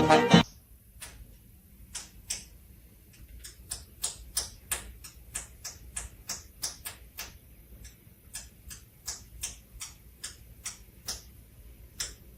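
A series of irregular sharp clicks or taps, about two or three a second, over a faint rumble.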